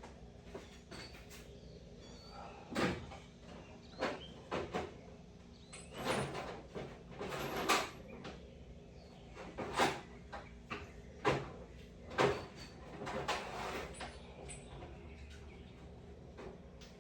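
Hand tools knocking and scraping against metal parts: about a dozen irregular clanks and short rattles, sparse at first and busiest through the middle.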